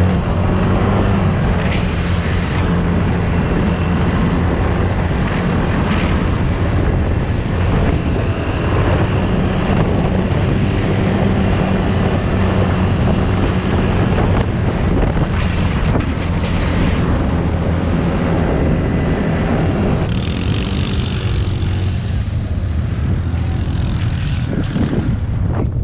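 An engine running steadily, a loud low drone that holds one pitch.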